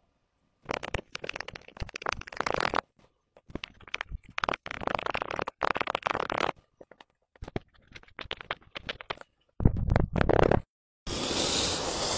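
Slime being worked by hand, squelching with crackling little pops in bursts of a second or two with short silent gaps between them. A deeper squelch comes about ten seconds in, then a steadier, denser stretch of sound begins.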